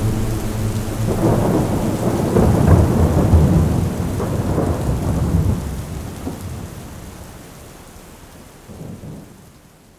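A long roll of thunder over heavy rain: a deep rumble that swells about a second in, peaks around the third second, then slowly dies away.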